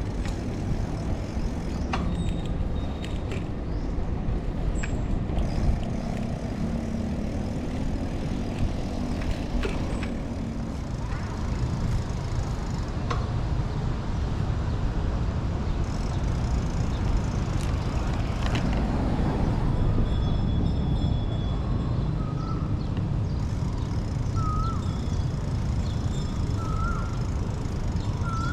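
City street traffic heard from a moving bicycle: a steady low rumble of passing vehicles, with an engine drone going by about six to ten seconds in and a few scattered clicks. Near the end, a bird gives short rising calls every second or two.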